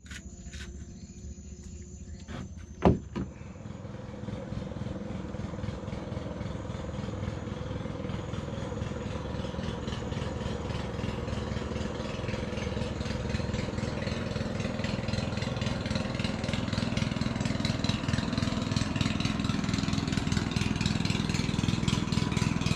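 A small boat engine running on the river, growing steadily louder over some twenty seconds, with a single sharp knock about three seconds in.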